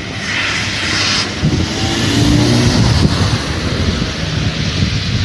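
A passing vehicle's engine: a low rumble that swells to a peak about halfway through and then slowly fades, with wind buffeting the microphone.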